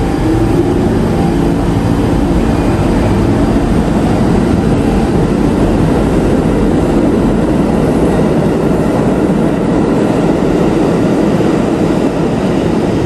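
New York City Subway train running through the station: a loud, steady rumble of wheels on rail.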